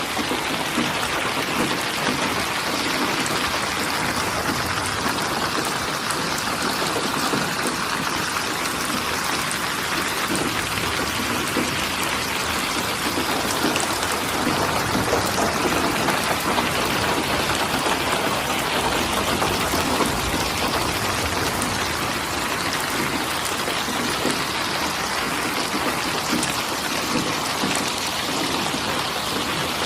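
Steady rain falling, an even hiss of many drops that holds without a break.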